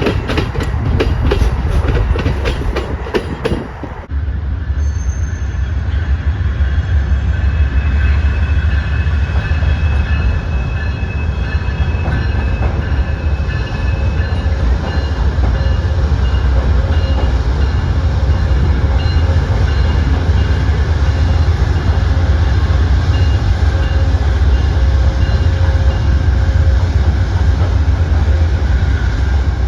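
Amtrak passenger train: for the first few seconds the rapid clickety-clack of cars passing over rail joints, then, about four seconds in, a steady low rumble of a moving train with faint high wheel squeal coming and going.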